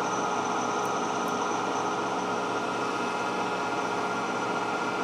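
Steady machine hum with several fixed tones, from shop machinery running at a constant speed. Two faint light ticks come about a second in.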